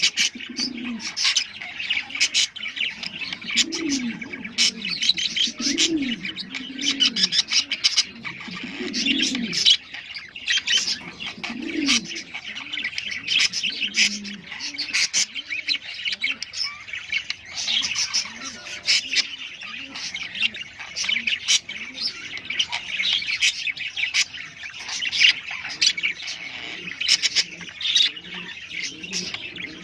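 Budgerigars and lovebirds chirping and chattering continuously, the breeding-season chatter used to stimulate other birds to mate, with low cooing calls repeating underneath.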